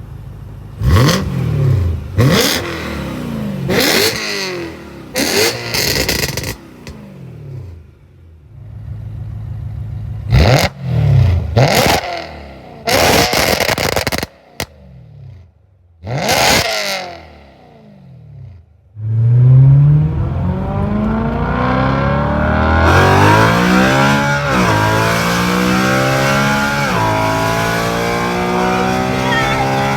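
BMW E9x M3's 4.0-litre V8 through a catless resonated X-pipe exhaust, revved in a series of sharp blips with pauses between, then pulled hard under full throttle from about two-thirds of the way in, the pitch climbing and dropping back twice at upshifts. The tone is high-pitched and raspy.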